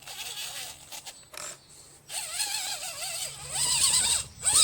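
Redcat Gen7 Sport 1/10-scale RC crawler's electric motor and drivetrain whining as it crawls, the pitch wavering up and down with the throttle. A short lull comes about one and a half seconds in, then the whine grows louder.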